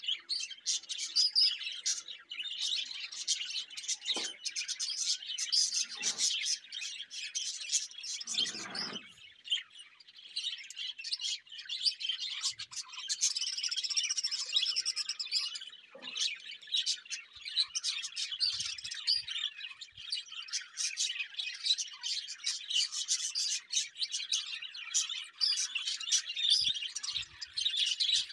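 Small birds chirping, with many short calls following one another in quick succession.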